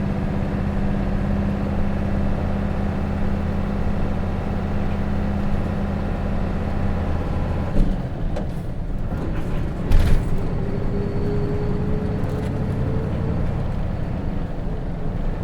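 Hino RJ bus's J08C six-cylinder diesel engine pulling steadily, heard from inside the bus. About eight seconds in, the note drops away after a click and the bus runs on more loosely. A knock follows about two seconds later, then a faint rising whine.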